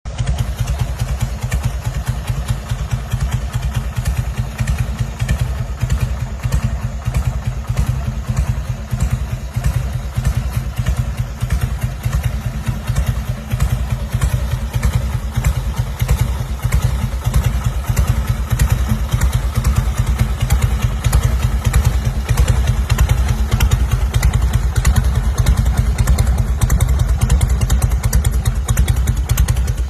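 Custom motorcycle engine running steadily, its exhaust giving a fast, even train of low pulses.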